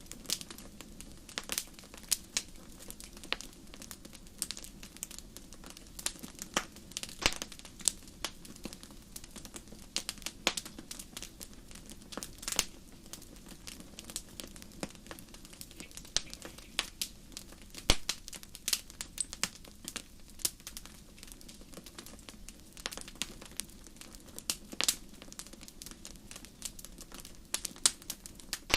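Wood fire burning in a fireplace, crackling with frequent irregular sharp snaps and pops over a steady low hiss.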